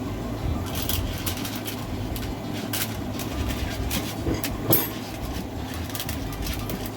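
Craft materials being handled on a tabletop: scattered rustles and light clicks over a steady low hum, with one sharper click a little before five seconds in.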